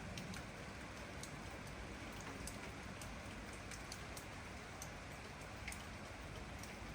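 Steady rain, with many separate drops ticking sharply at an uneven pace over the continuous patter.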